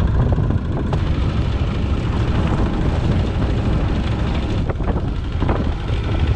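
Fishing boat's engine running steadily, a loud low drone mixed with wind on the microphone, with a few sharp knocks about two-thirds of the way through.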